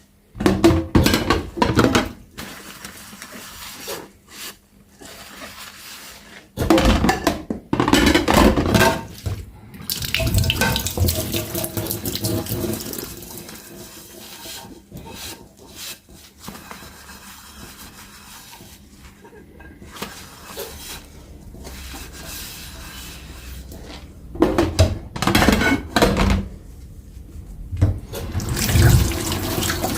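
Dishes being washed by hand at a kitchen sink: tap water running into the sink off and on, with clatter and knocks of dishes being handled in several spells.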